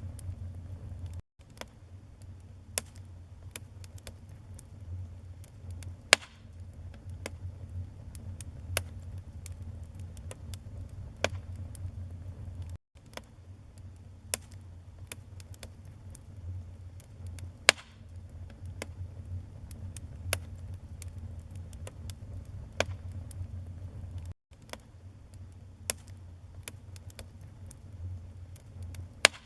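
Wood fire burning in a fireplace: a steady low rumble of flames with irregular sharp crackles and pops from the logs, a few of them loud snaps. The sound drops out to silence for an instant three times, about every eleven and a half seconds.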